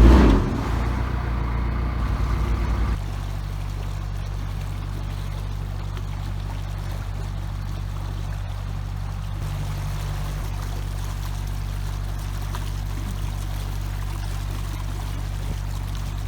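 Narrowboat's diesel engine running steadily while cruising, a low, even hum. It is louder and fuller for the first three seconds, then drops suddenly to a quieter, steady level.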